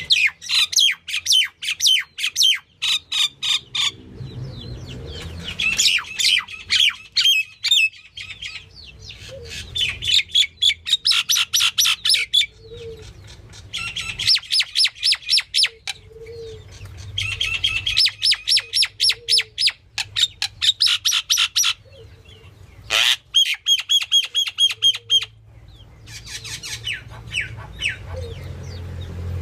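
Myna calling in repeated runs of rapid, harsh notes, each run lasting about two seconds with short pauses between, over a faint low hum.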